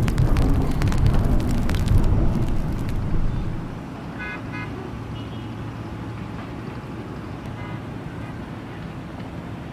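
Road traffic heard from a height: a loud low rumble that drops away about three and a half seconds in, then a steady low hum, with two short vehicle horn toots about four seconds in.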